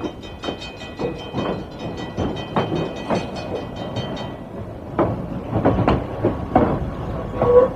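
Train wheels clattering over rail joints as the train rolls by: a run of uneven sharp clicks over a rumble.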